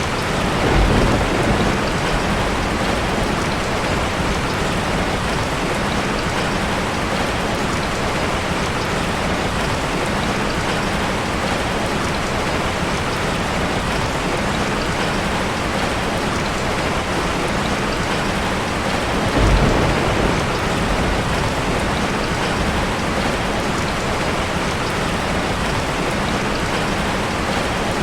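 Steady rain falling in an even hiss, with two short low rumbles of thunder, one about a second in and one about two-thirds of the way through.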